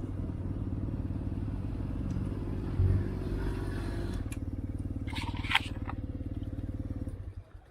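Motorcycle engine idling steadily with an even pulse, with a few light clicks about five seconds in. The engine stops near the end.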